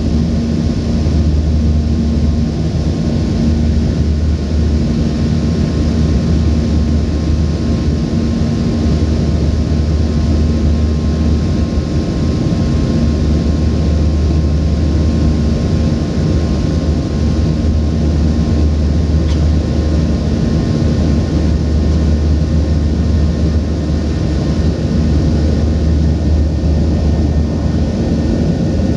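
Steady cabin drone inside a Boeing 737-800 from its CFM56-7B engines and airflow, with a strong low hum and a few faint steady tones.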